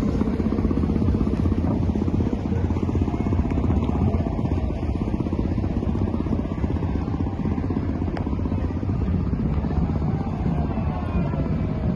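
A boat's engine running steadily with a low, even rumble.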